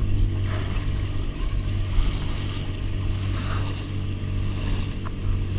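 Fishing boat's engine running steadily under way, with wind and water rushing past.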